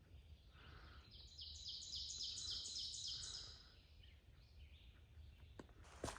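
A songbird sings a run of about ten quickly repeated high notes lasting about two and a half seconds. A few footsteps begin near the end.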